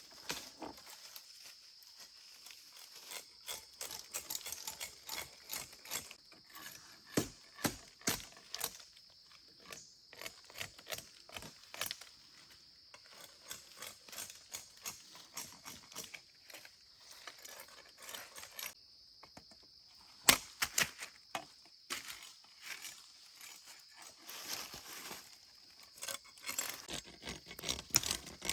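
Irregular knocks and clicks, the loudest about two-thirds of the way through, over a steady high insect drone.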